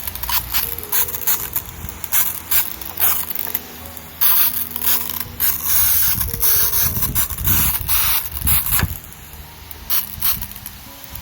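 Water being sprayed onto freshly sown soil: a string of sharp mechanical clicks from the sprayer, with a burst of hissing spray from about four to six seconds in.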